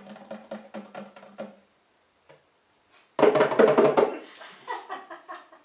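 Bongos played by hand: a run of quick taps for the first second and a half, a pause, then a loud, fast flurry about three seconds in that thins out into scattered taps.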